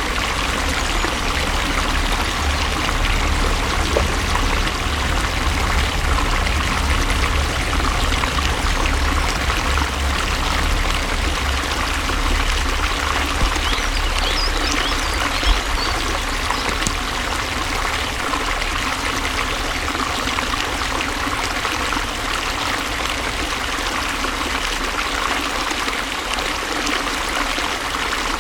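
Flowing water: a stream running and trickling steadily, with a deep low rumble under it that eases off about halfway through.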